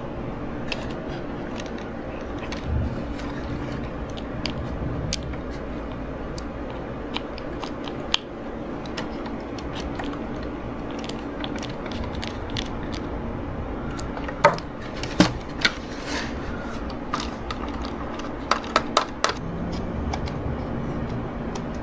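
Light clicks and taps of small RC gearbox parts being handled and fitted over a steady low hum, with a few sharper clicks about two-thirds of the way in and again near the end.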